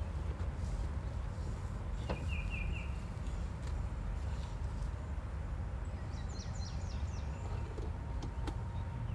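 Songbird calls over a steady low rumble: a short run of four quick chirps about two seconds in, then a higher, faster run of falling chirps around six to seven seconds in.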